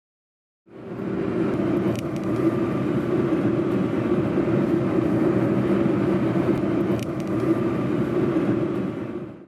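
Steady road-vehicle noise, a car running along a road, starting abruptly under a second in and cutting off just before the end, with two faint clicks.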